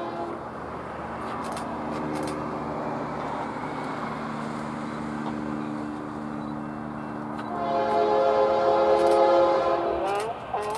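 Locomotive horn sounding over the rumble of a passing train: a blast cut off right at the start, a softer held note through the middle, then a loud chord lasting a couple of seconds from about three-quarters of the way in.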